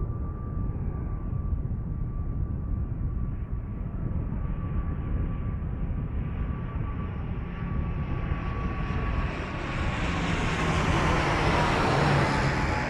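Airliner on approach to land, its engines growing louder as it closes in; a steady engine whine drops in pitch as it passes close overhead about eleven seconds in, with a low rumble underneath throughout.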